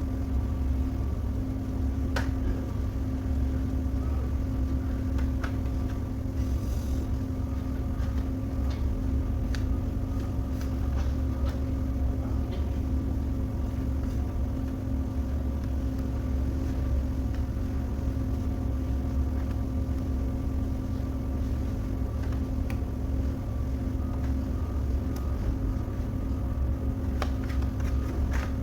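Steady low machine hum and rumble with a constant pitch, with a few faint clicks and taps over it.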